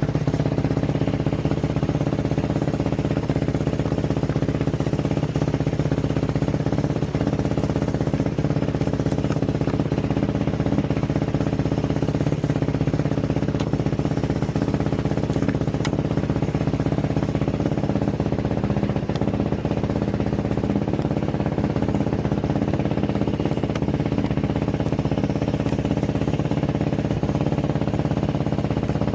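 Yamaha YFZ450's carbureted single-cylinder four-stroke engine idling steadily, its pitch holding even throughout.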